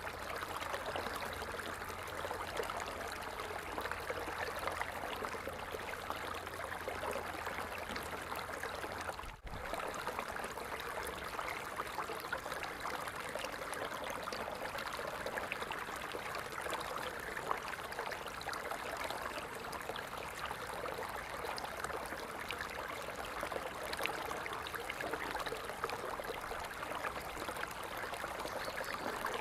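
Falling water splashing steadily. There is a brief dropout about a third of the way in.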